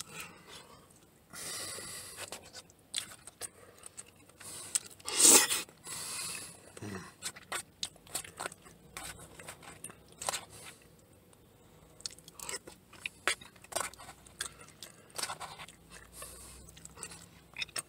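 Close-up chewing and mouth noises of a man eating a loco moco of rice, egg and gravy from a plastic spoon, with many small clicks and a few louder noises, the loudest about five seconds in.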